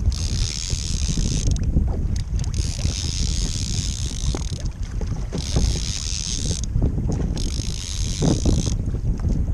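Kayak moving through the water, its hiss rising and falling in surges about every second and a half, over a low rumble of wind on the microphone.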